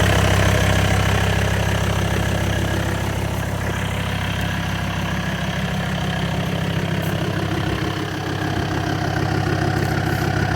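Mercedes turbo diesel idling steadily, heard at the tailpipe of its 3-inch stainless exhaust.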